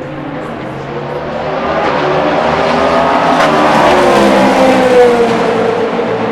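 Race car passing by at speed: its engine grows louder over about three seconds, then its pitch drops as it goes past, loudest about five seconds in.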